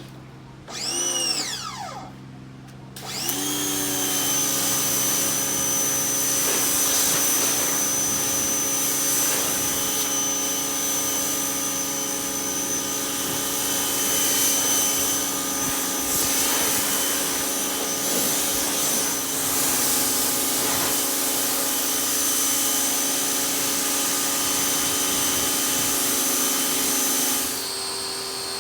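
A machine's electric motor briefly spins up and winds down. About three seconds in it starts again and runs at a steady high whine. Its sound drops and changes near the end.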